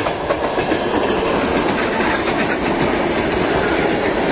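ER9T electric multiple unit passing close by at speed: the steady noise of its wheels running on the rails as the carriages go past.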